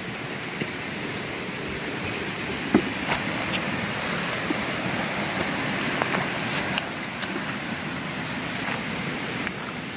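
Steady rushing noise of running water, with a few small sharp clicks and snaps scattered through it.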